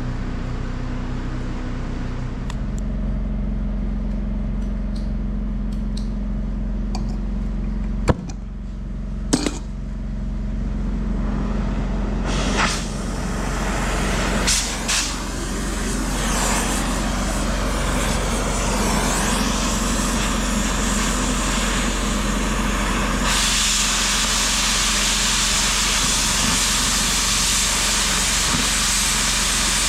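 A steady low engine hum with a few sharp clicks; then a cutting torch hisses as steel plate is cut, growing louder and brighter about three-quarters of the way through.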